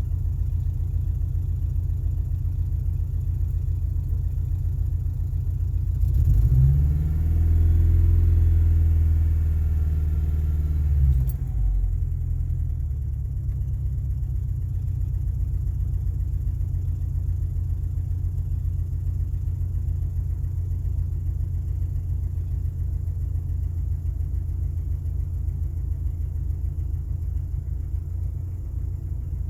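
2.5-litre Lima four-cylinder engine of a 2000 XLT idling, an idle its owner calls rough on start-up. About six seconds in it is revved and held for about five seconds, then it drops abruptly back to idle.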